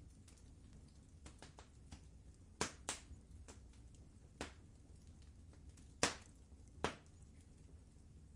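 Fireplace fire crackling: scattered sharp pops, several at a time, the loudest a pair about two and a half seconds in and another pair about six seconds in, over a low steady rumble.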